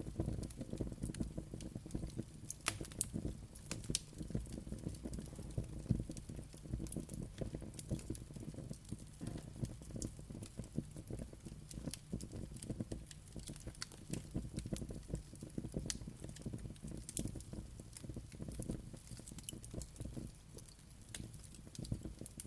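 Wood fire burning: a steady low rumble of flames with irregular sharp crackles and pops throughout.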